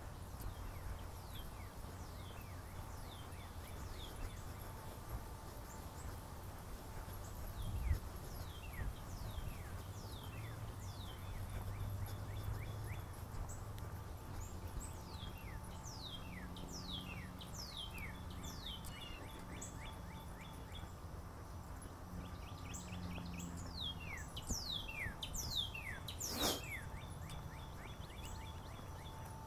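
Birds chirping outdoors: many short, quick calls that each sweep downward in pitch, over a steady low rumble. There is one sharp click near the end.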